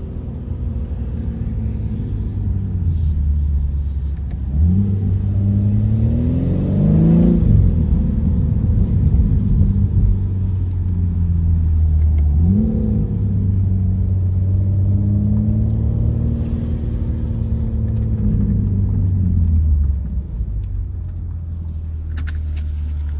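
2023 BMW M3 Competition's twin-turbo straight-six running under load. The revs climb twice, about five and about twelve seconds in. The first climb is cut off sharply, and the engine eases off somewhat near the end.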